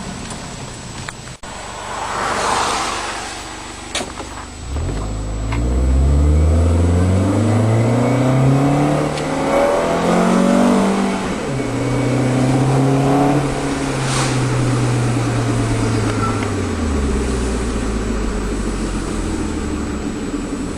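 Acura TSX's 2.4-litre K24A2 four-cylinder through a Fujitsubo aftermarket exhaust with a high-flow cat, accelerating hard from about five seconds in with the engine note climbing steadily. The pitch drops sharply at an automatic upshift about six seconds later, holds steady, then falls again as the car eases off.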